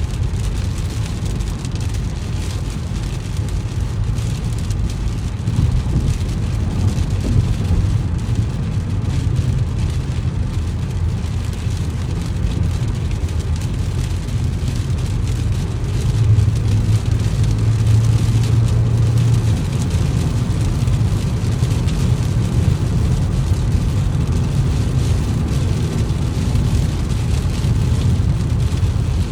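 A car driving on a wet road in rain: a steady low rumble of tyres and engine with a hiss of rain over it. A low hum grows a little stronger for a few seconds past the middle.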